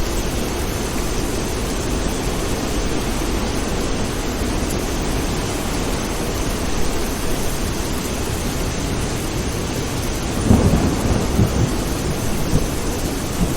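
Steady heavy rain, with a low rumble of thunder rolling in about ten and a half seconds in and lasting a couple of seconds.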